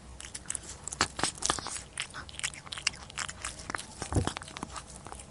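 Close-miked mukbang eating sounds of tteokbokki rice cakes being bitten and chewed, with many quick sharp mouth clicks and one heavier bite about four seconds in.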